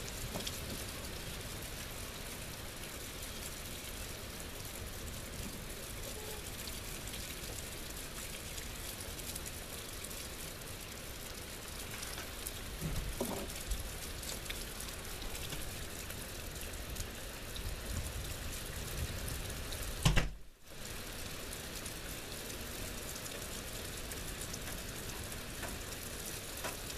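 Steady rain falling during a thunderstorm, heard through a window screen as an even hiss. About twenty seconds in there is one sharp loud thump, and the sound briefly cuts out just after it.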